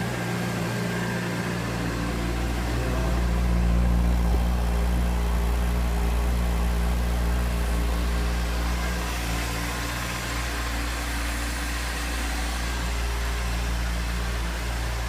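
Honda CBR600RR's 599 cc inline-four engine idling steadily, its low note growing a little louder about two seconds in.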